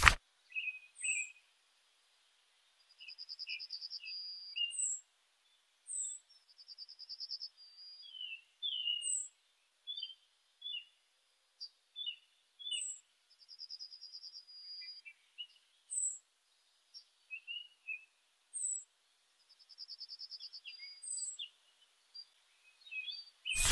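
Birds chirping: a short high call repeating every second or two, a few brief trills, and scattered lower chirps. A sharp click sounds at the very start and again at the end.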